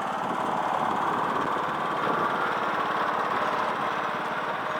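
Small engine running steadily with a fast, even chug.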